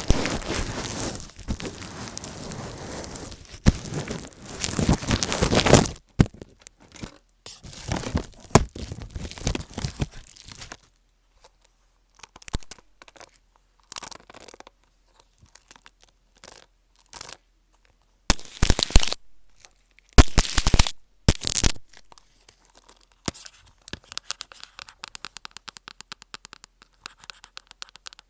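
Close-miked ASMR handling sounds, tearing- and scraping-like: dense rustling for the first six seconds, then short irregular bursts, ending in a fast run of tiny clicks.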